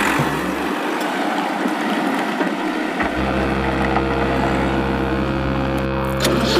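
A steady, engine-like hum, low with a few higher tones above it, starts about three seconds in over a steady rushing noise.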